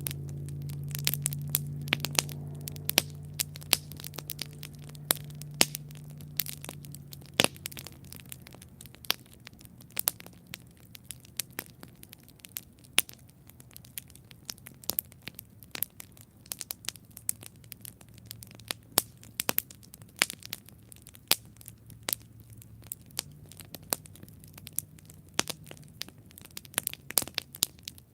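Wood campfire crackling, with sharp irregular pops several times a second. A low hum underneath fades away over the first several seconds.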